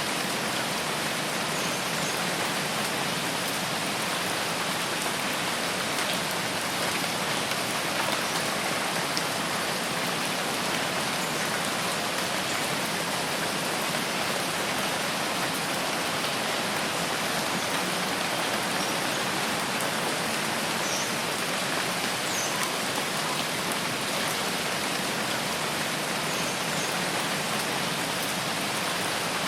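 Steady rain falling, an even, unbroken wash of many drops at a constant level.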